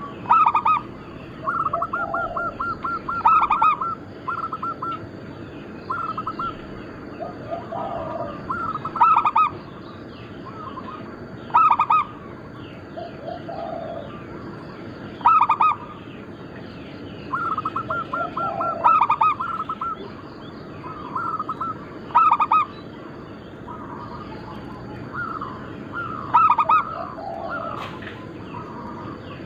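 Zebra doves (perkutut) cooing: a phrase every two or three seconds, some of them quick runs of short clipped notes, others a few lower coos. A faint steady high-pitched tone runs behind.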